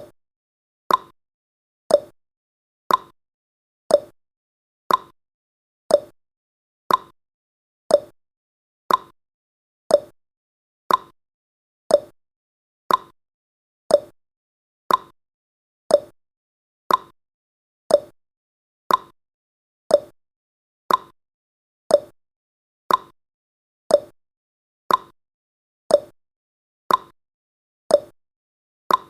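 Clock-tick sound effect of a countdown timer: one sharp tick every second, alternating higher and lower in pitch like a tick-tock.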